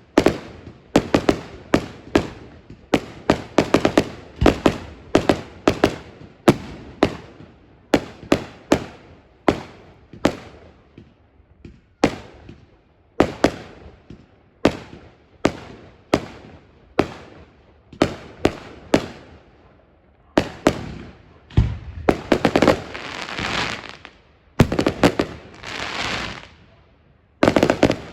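Fireworks display: a rapid run of sharp bangs, several a second. About three quarters of the way through it changes to a few longer bursts lasting a second or two each.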